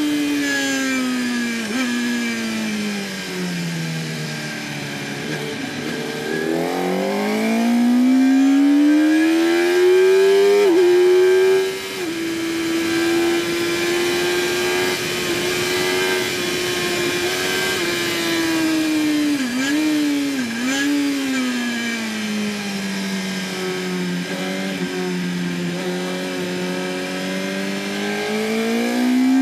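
A 2008 Yamaha R1's inline-four engine at racing speed: the revs fall, then climb hard through the gears with an upshift. They hold steady, dip twice in quick succession as the rider downshifts, sink low, and rise again near the end.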